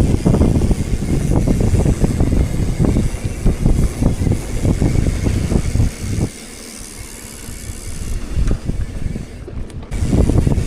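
Wind buffeting the microphone while travelling, over a low road rumble; it eases for about three seconds past the middle, then picks up again.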